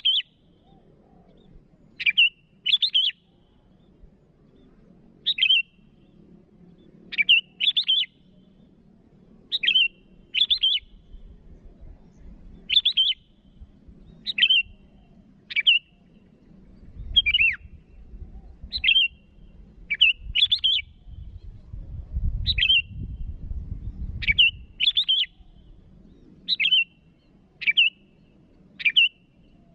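Sooty-headed bulbul (kutilang) giving short, sharp call notes, singly or in quick pairs, about every one to two seconds: a bird calling out a rival. A faint low rumble swells under the calls in the middle.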